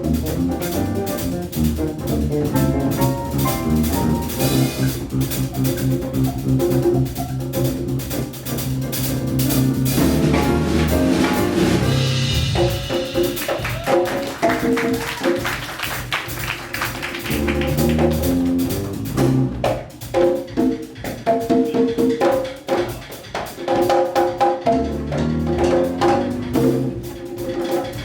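Live Latin jazz ensemble playing a Brazilian samba-jazz tune: six-string electric bass, piano, drum kit and hand percussion in a steady groove, with a bright cymbal wash about twelve seconds in.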